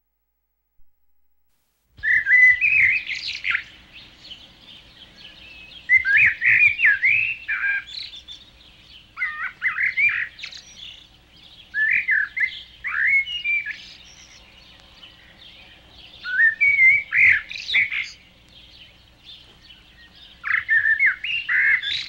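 A songbird singing in short, quick warbled phrases of about a second and a half, repeated every three to four seconds, with faint chirps between them; it starts about two seconds in.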